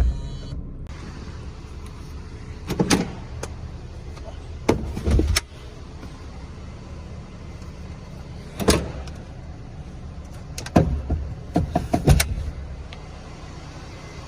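Mazda Flair Wagon kei car running with a steady low hum, while a handful of short clunks and knocks from the car's doors or fittings sound over it, the loudest near the end.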